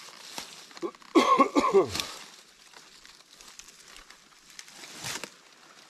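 A person's voice: a short, loud vocal sound about a second in, lasting under a second, and a brief fainter one near the end.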